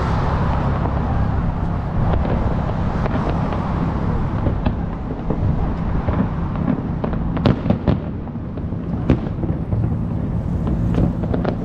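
Aerial fireworks exploding: a continuous low rumble of booms with many sharp cracks, the loudest bangs coming about seven to nine seconds in.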